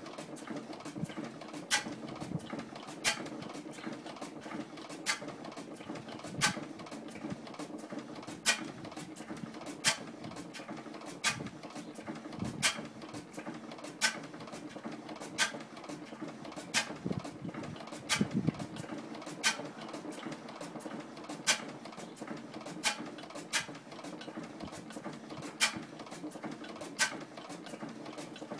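1912 Crossley G112 stationary gas engine running slowly: a sharp click about every one and a half seconds, with lighter ticks between, over a steady low hum.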